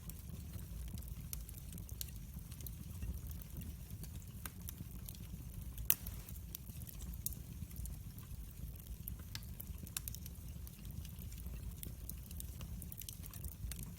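Wood fire burning: a steady low rumble with scattered sharp crackles and pops, the loudest pop about six seconds in.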